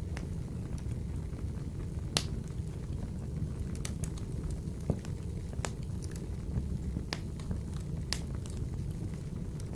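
Wood fire burning in a wood-burning stove: a steady low rumble of flame with scattered sharp crackles and pops, a dozen or so, the loudest about two seconds and five seconds in.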